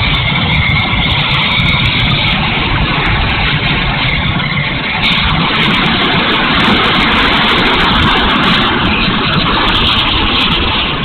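Electric ducted fan of a 70 mm E-flite F-16 RC jet running, a steady loud rushing whoosh that grows stronger about five seconds in.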